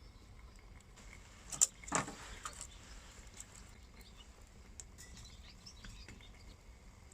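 Small wood fire crackling faintly with scattered little ticks, and two sharp louder cracks just under two seconds in.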